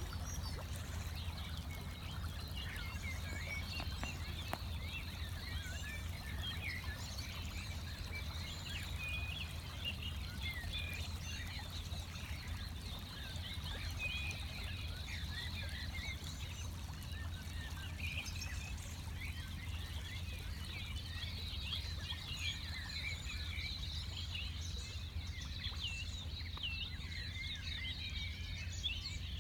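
Pre-dawn bird chorus: many birds calling at once, a dense, unbroken tangle of short high chirps and whistles, over a steady low rumble.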